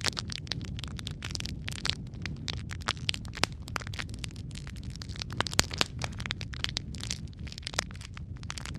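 Wood logs burning in a fireplace: a steady low rumble of the flames with irregular crackles and sharp pops, one pop louder than the rest a little past the middle.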